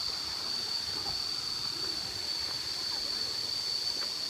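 Waterfall and stream water rushing steadily, with a steady high-pitched buzz over it and faint voices in the background.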